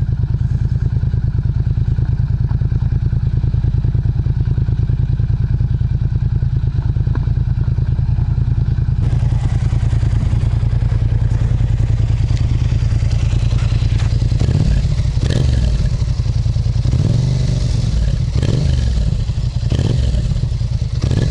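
Yamaha MT-07's 689 cc parallel-twin engine idling steadily through an aftermarket exhaust muffler. About two-thirds of the way in, the rider gives five or so quick throttle blips, each rising and falling back to idle.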